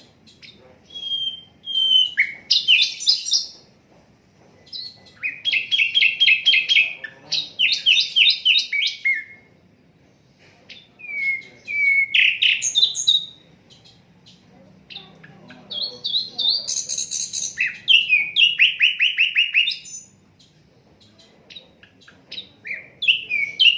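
Sikatan londo flycatcher singing: bright, high-pitched phrases of rapid repeated notes, some with a slurred rising note at the start. The phrases come in five bouts, each one to three seconds long, with short pauses between them.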